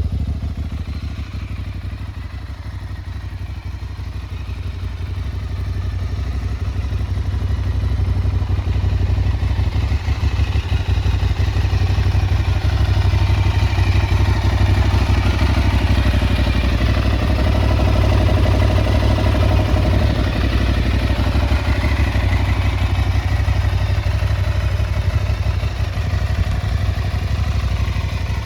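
Aprilia Tuareg 660's parallel-twin engine idling steadily, getting louder a few seconds in and then holding even.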